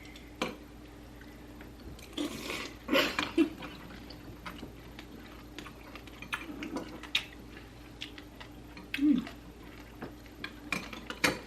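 Eating from a bowl of fruit and ice in coconut water: scattered small clicks of spoons against the bowl, chewing and wet liquid sounds, with a louder spell of noise about two to three seconds in. A faint steady hum runs underneath.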